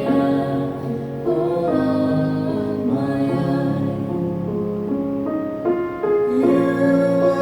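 Slow church music with long held notes, voices singing over keyboard accompaniment.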